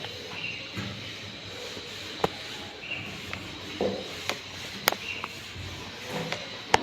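Scattered light knocks and clicks, a few seconds apart, with soft rustling between them, as objects are handled and set down.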